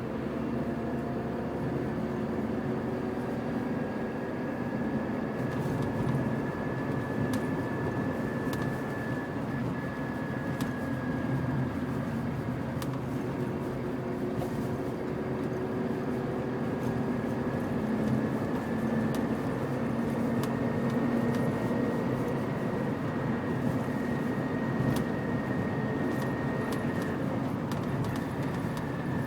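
Chevrolet Niva running with a thin, steady high whistle that wavers slightly in pitch and a lower howl over engine and road noise: the noise, howl and whistle the owner is trying to track down.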